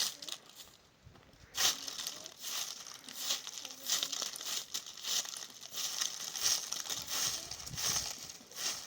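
Irregular crinkling and rustling of some material being handled, starting in earnest about a second and a half in after a brief lull.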